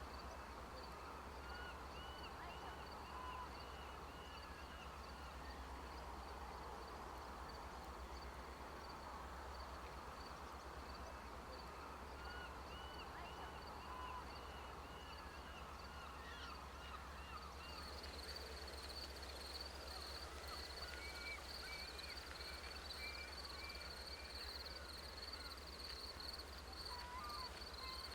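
Birds calling outdoors in runs of short repeated chirps, with a steady high thin trill setting in about two-thirds of the way through, over a faint low steady rumble.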